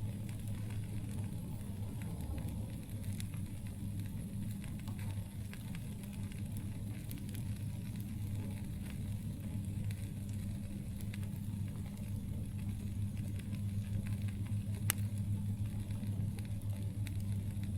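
Wood campfire crackling, with scattered small pops and one sharp, louder pop near the end, over a steady low rumble.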